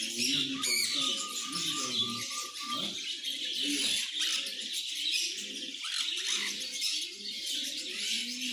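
Lovebirds chirping in a continuous, busy high-pitched chatter.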